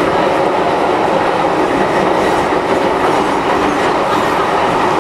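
MTR M-Train electric multiple unit running along the line, heard from inside the car: a steady rumble of wheels on rail.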